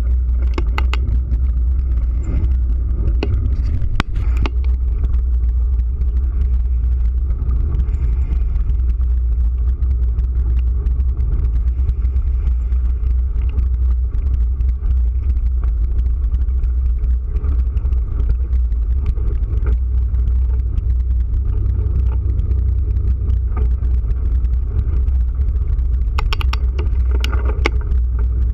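Steady low wind rumble buffeting the microphone of a camera carried on a moving bike, with a few short clicks or rattles near the start and near the end.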